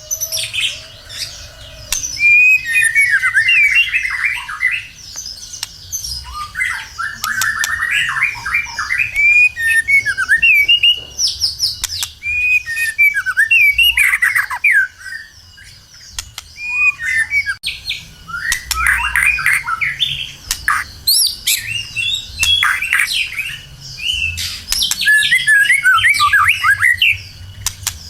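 White-rumped shama (murai batu) singing loud, varied phrases of whistles and rapid chattering notes, in bursts with short pauses and a quieter spell about halfway through.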